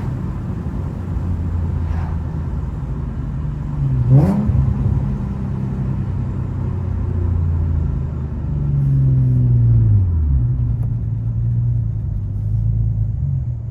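Car engine running while driving, with road noise under it. There is a quick sharp rev about four seconds in, and the engine note falls steadily over a couple of seconds around eight to ten seconds in, as the revs drop.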